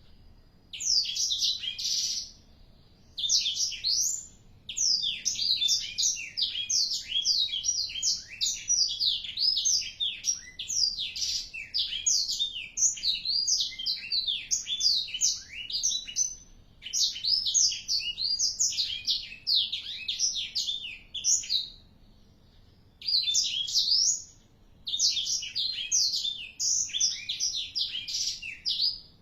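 A four-month-old blackthroat (black-throated canary) singing long, fast runs of high, sweeping twittering notes, breaking off briefly several times before starting again.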